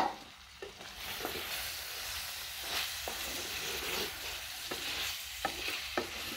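Goat liver and sliced peppers sizzling in a metal pan while a wooden spoon stirs them, with several short knocks of the spoon against the pan. A sharp clack at the very start is the loudest sound, and the sizzling grows louder about a second in.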